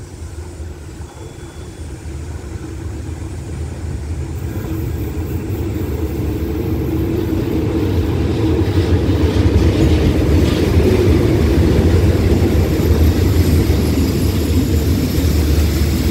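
Diesel locomotive hauling a passenger train arriving at a platform: its engine drone grows steadily louder over the first several seconds as it approaches, then the locomotive and carriages rumble past.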